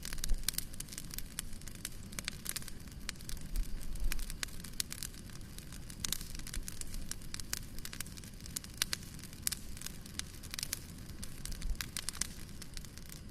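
Wood fire burning in a fireplace, crackling and popping in irregular sharp snaps over a low steady rumble.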